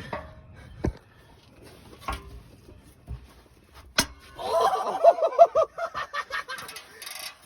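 A sharp knock about four seconds in, then a man's burst of short, rhythmic, high-pitched yelps, about five a second.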